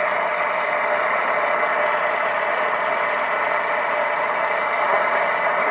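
Steady static hiss from a CB radio receiver through an external speaker, with no station coming through: the skip signal has faded out.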